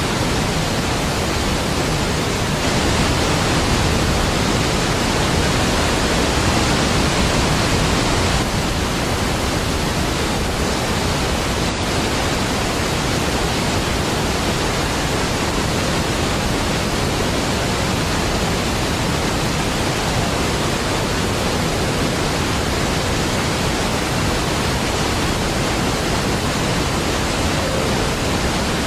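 Deep, steady rush of a large waterfall (Niagara Falls), a dense wash of falling water, slightly louder from about three to eight seconds in.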